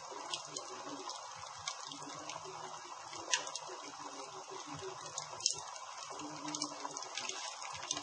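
Wood campfire burning: a steady hiss with frequent sharp crackles and pops, the loudest a little over three seconds in and another about five and a half seconds in.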